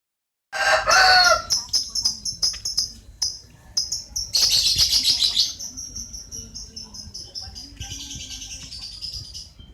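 Birds chirping and calling: many quick high chirps, with a louder, lower call about a second in and a thick burst of chirping near the middle. The sound cuts in abruptly.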